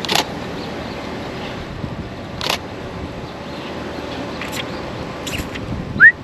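Single shutter clicks from a Canon Rebel T7i DSLR, one at a time every second or two with a quick pair near the end, over steady outdoor background noise. Just before the end a short rising chirp, the loudest sound, cuts in.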